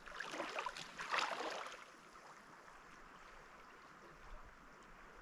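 Mountain river water rushing steadily, with two louder swells of splashing water noise in the first two seconds.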